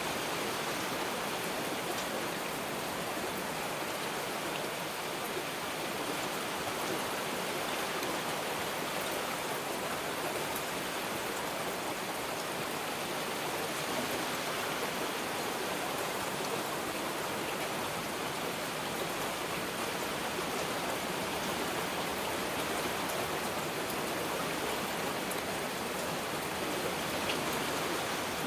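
Heavy rain falling steadily: an even, unbroken hiss with a few faint sharper drop ticks.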